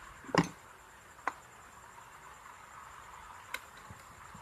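Parts of an electric clothes iron being handled during reassembly: one sharp knock about half a second in, then two lighter clicks, over a faint steady high-pitched background tone.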